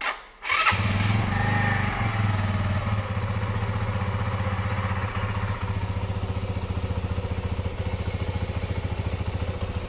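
Mash 125 Seventy Five's air-cooled single-cylinder engine starting about half a second in and settling into a steady idle.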